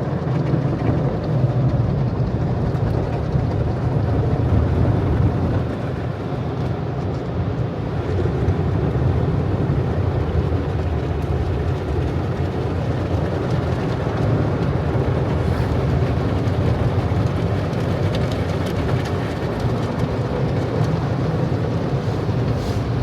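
Automatic car wash machinery running around the car, heard from inside the cabin: a steady, loud, low noise of the wash equipment working on the car.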